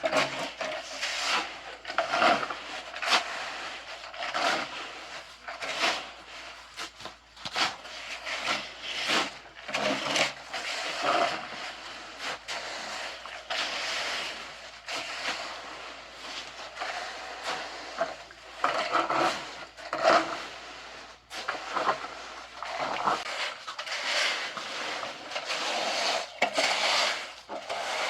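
A trowel or float scraping and rubbing over freshly laid wet concrete, in repeated irregular strokes about one a second, as the floor is levelled and smoothed.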